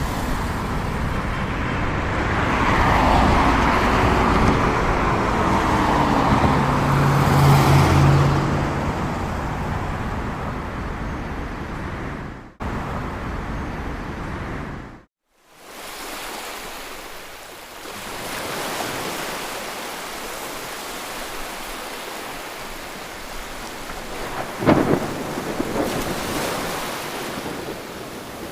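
Rain falling steadily, heavier and with a low rumble in the first part, then lighter. The sound cuts out briefly twice in the middle, and there is one sharp knock near the end.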